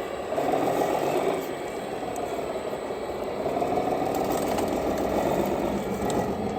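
Radio-controlled model truck's motor and gear drivetrain whining with a light rattle, the pitch rising and falling twice as the throttle is opened and eased off.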